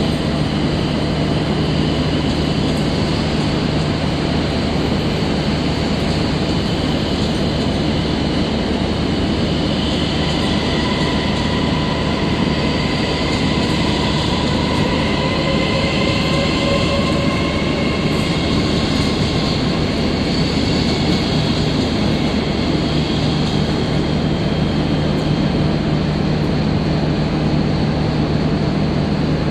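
CRH1E high-speed electric multiple unit running past along the platform and pulling away: a steady rumble of wheels on rail, with a faint whine that rises slowly in pitch through the middle.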